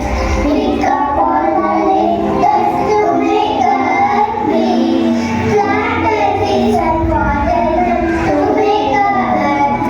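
A song with children's voices singing a melody over backing music.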